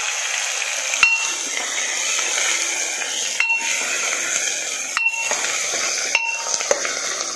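Onions frying in hot oil in a metal pot, a steady sizzle, while a metal spoon stirs them and knocks against the pot four times, each knock ringing briefly.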